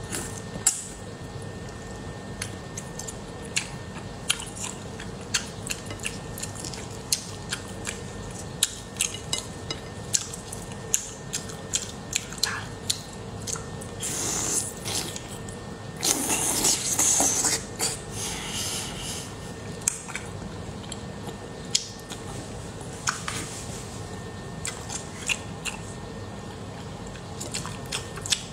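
Close-miked eating sounds of soft, fatty fish in chili oil being bitten and chewed: many sharp, wet mouth clicks and smacks. Two longer slurps come just past halfway.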